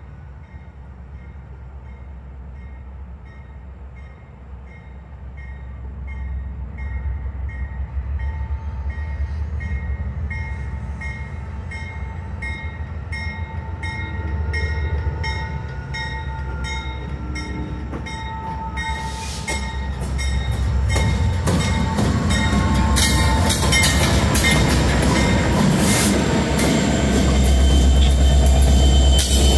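Norfolk Southern freight train drawing near and passing, its diesel locomotives and cars growing steadily louder. A regular high ding sounds about twice a second through the first part. From about two-thirds of the way in, rapid clicks and knocks of wheels on the rails join a building rumble.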